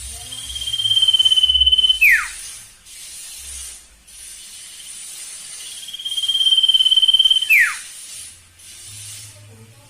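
Sirtu bird singing: two calls about five seconds apart, each a long, steady high whistle that ends in a quick downward slide. A faint, steady high hiss runs behind the calls.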